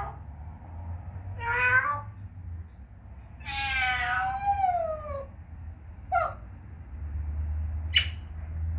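African grey parrot giving meow-like calls: a short one, then a longer one that bends down and up in pitch, followed by a brief squeak and a sharp high chirp near the end.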